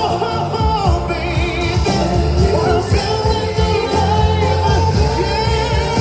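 Live R&B concert music: singers in harmony holding wavering notes over a band with a steady bass line and drums.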